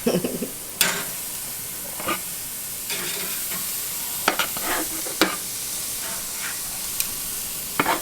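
Burger patties sizzling on a kamado charcoal grill, a steady frying hiss with a few sharp clicks scattered through it.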